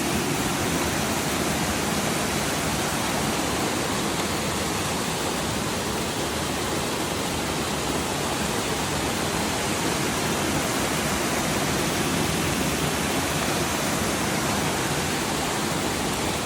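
Swallow Falls waterfall: a steady, even rush of falling water.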